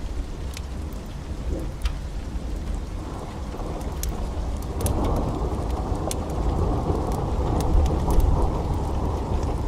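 Steady pouring rain with a deep thunder rumble that swells about halfway through, growing loudest near the end. Scattered sharp crackles, like a wood fire in a fireplace, pop over it.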